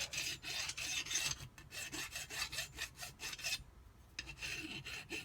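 Hand file rasping over the vane edges of a jet-ski pump's metal impeller in quick back-and-forth strokes, dressing down burrs to bring the damaged edges back to shape. The strokes stop briefly about three and a half seconds in, then start again near the end.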